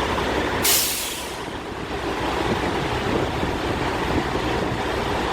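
Steady rumble of idling diesel truck engines, with one short sharp hiss of air about a second in.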